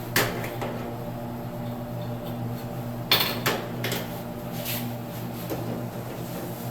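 Metal tools and plumbing fittings clinking and clattering while shutoff valves under a sink are being worked on: one clank just after the start and a louder cluster about three seconds in, over a steady low hum.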